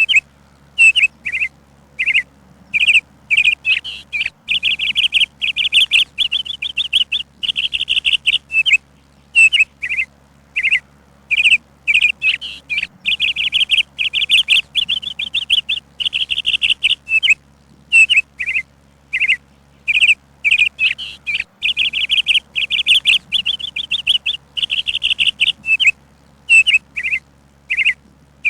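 A songbird chirping and singing in quick trilled phrases, each lasting about a second, between short single chirps, repeating with brief pauses.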